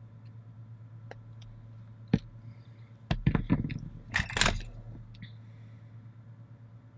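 Sharp clicks, then a short clatter and scrape of small tools and parts being handled on an electronics workbench while soldering resistors to transistor pins, over a steady low hum.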